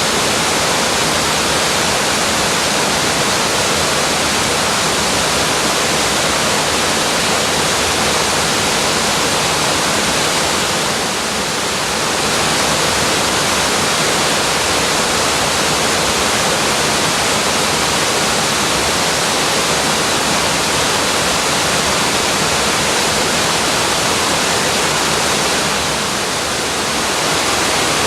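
Waterfall pouring: a loud, steady, dense rush of falling water, briefly a little softer about eleven seconds in and again near the end.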